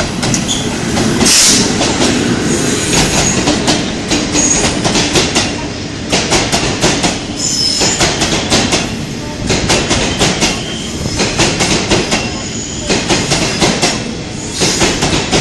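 Taiwan Railways grain hopper wagons rolling past close by behind an electric locomotive, with a steady rumble and many irregular wheel clicks and clunks over the rail joints. Brief high wheel squeals come and go.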